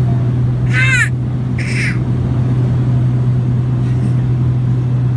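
Steady low drone of a vehicle's engine heard from inside it. About a second in comes one short, high-pitched cry, then a brief hissing burst.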